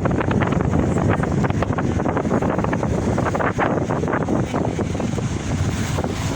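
Wind buffeting the microphone: a steady low rumble with rapid crackling gusts.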